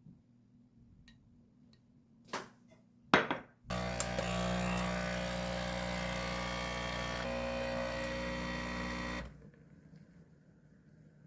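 Two short knocks, then a small electric kitchen appliance's motor hums steadily for about five seconds and cuts off suddenly.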